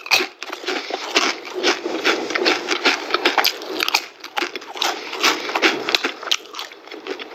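Close-up crunching and chewing of Doritos tortilla chips, a fast, irregular run of crisp crunches.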